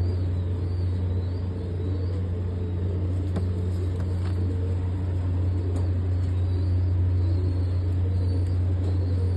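A steady low rumble, unchanging, with a few faint clicks.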